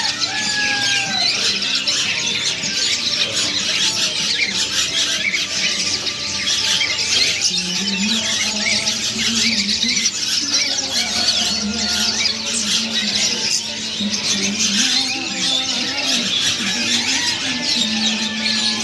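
A crowd of young, nearly weaned hand-fed cigun birds chirping and squealing together in a continuous high, busy chatter.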